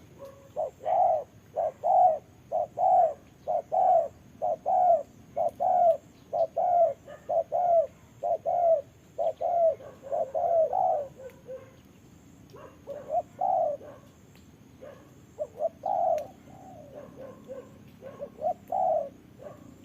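Spotted doves cooing: runs of short low coos, about two a second, breaking off about eleven seconds in and starting again a second or so later.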